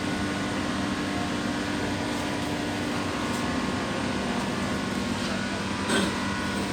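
Steady hum inside a metro train carriage, a drone of machinery and air conditioning with two steady low tones under it. A brief sharper sound cuts in about six seconds in.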